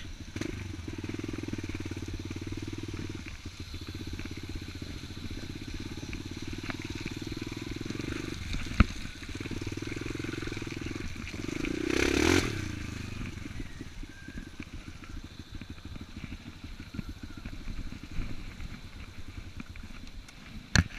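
Enduro dirt bike engine running at uneven throttle, its note stepping up and down as it is ridden. There is a sharp click about nine seconds in and a louder burst of throttle about twelve seconds in.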